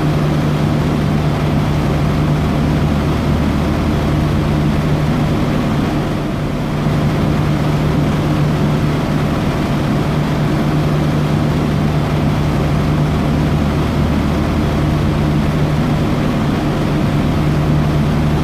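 Passenger ferry's engines running steadily under way, a constant low drone with a rush of noise over it.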